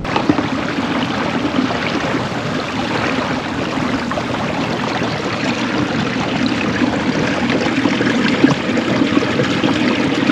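Water rushing and splashing steadily against the hull of a moving kayak.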